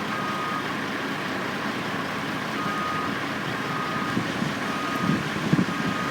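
A construction vehicle's reversing alarm beeping, a single steady tone in half-second beeps about once a second, over the steady noise of site machinery. A few dull knocks come near the end.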